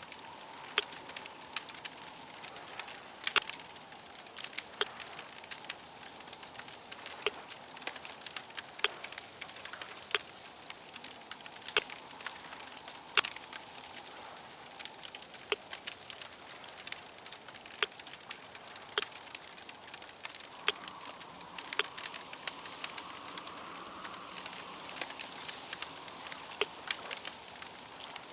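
Wood fire crackling, a steady hiss broken by frequent irregular sharp pops and snaps, with a faint wavering hum underneath.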